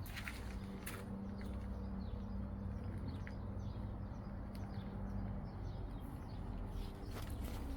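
A steady low hum with faint bird chirps over it and a few sharp clicks.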